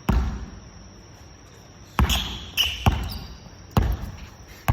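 Basketballs bouncing on a gym floor: one bounce at the start, then about five more bounces in the second half, each ringing on briefly in the hall.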